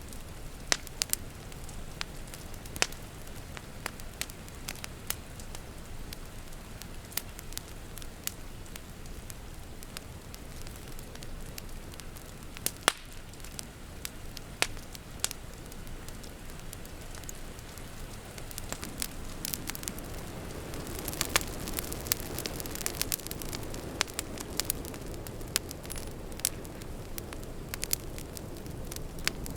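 Wood fire crackling, with frequent sharp pops and snaps over a steady low rush. About two-thirds of the way in, a deeper rushing sound swells and holds.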